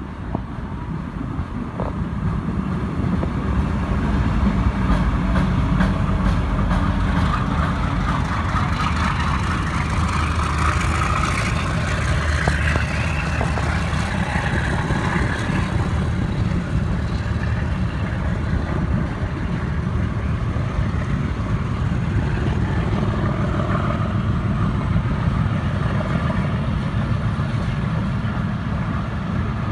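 Diesel-electric locomotive hauling the Awam Express, its engine running with a steady low hum as the train arrives, growing louder over the first few seconds and then holding.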